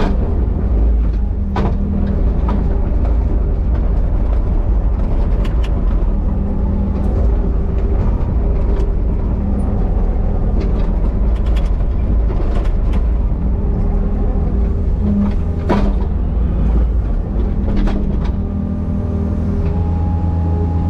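Excavator's diesel engine running steadily under working load, with scattered sharp knocks and clanks from the machine at work.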